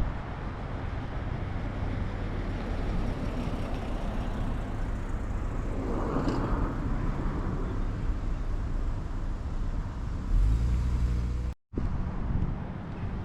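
Car engines running as cars drive slowly past, over steady outdoor noise. A louder, deeper engine rumble comes in near the end, then the sound drops out abruptly for a moment.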